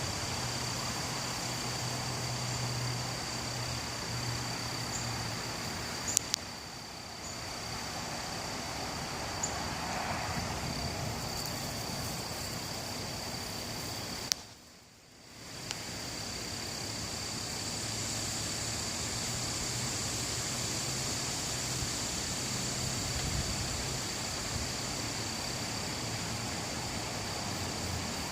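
Outdoor ambience: a steady rush of wind with a thin, steady high-pitched insect-like drone over it. About halfway through the sound drops out almost completely for a second or so, then comes back.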